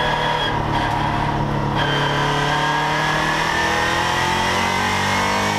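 Mercedes C63 AMG race car's V8 engine heard from inside the cockpit, pulling hard under acceleration. Its pitch holds steady at first, then slowly rises from about two seconds in, with no gear change.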